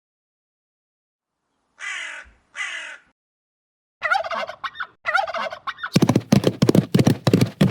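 Birds calling after a short pause: two short harsh calls, then two longer calls that bend in pitch, then a fast rattling run of pulses near the end.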